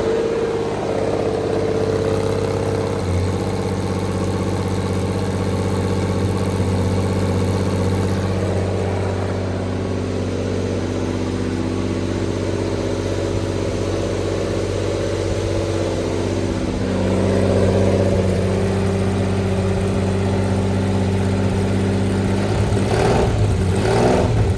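1984 Lamborghini Countach LP500 S carbureted V12 idling just after a cold start, steady and even. The idle rises slightly about two-thirds of the way in, with a couple of short surges near the end.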